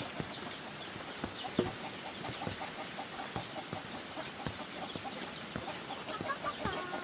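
Chickens clucking in short repeated notes through the middle, with scattered sharp knocks and taps throughout.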